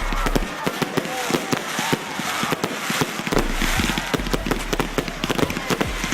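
Fireworks display with a dense, rapid run of sharp bangs and crackles going off continuously.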